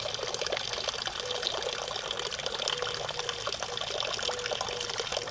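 Water running from a garden hose, trickling and splashing steadily.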